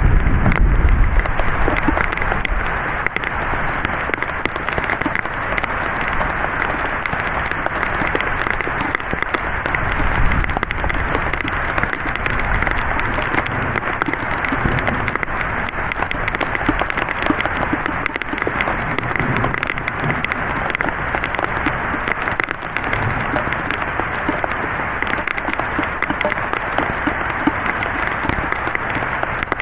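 Heavy thunderstorm rain pouring down steadily, with a dense patter of drops striking surfaces. A gust of wind adds a low rumble in the first couple of seconds.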